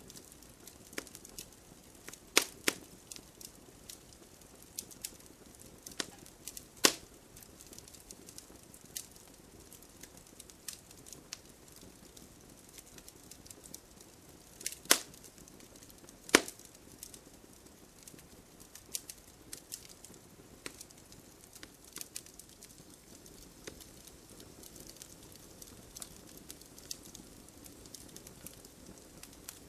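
Wood fire crackling: irregular sharp pops and snaps of burning wood over a low steady hiss, with a few louder cracks at about 2, 7, 15 and 16 seconds in.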